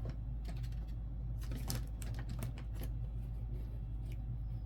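Light, irregular clicks and taps of nickels being handled and picked through, over a steady low hum.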